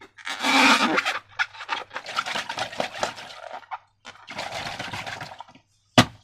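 Wet, sticky slime sounds, squelching and pouring, in three stretches, with a sharp click near the end.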